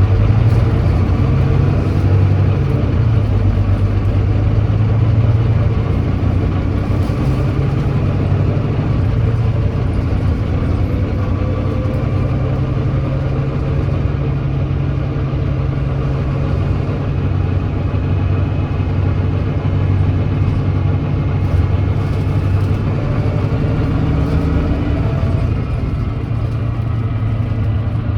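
Volvo D9B 9.3-litre diesel engine of a Volvo B9TL double-decker bus running steadily at low revs, its note rising slightly for a few seconds in the middle; the bus has an exhaust leak.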